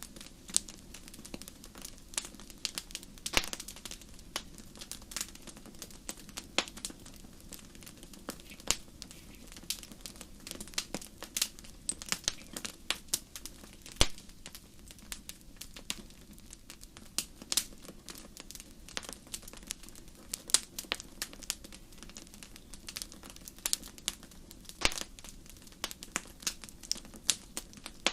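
Campfire crackling: irregular sharp pops and snaps, a few louder ones, over a low steady hiss.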